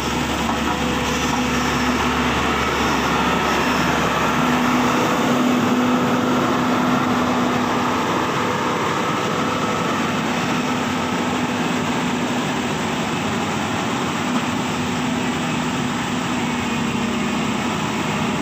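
Heavy diesel machinery engine running steadily at constant speed, a steady hum under a loud, even mechanical noise.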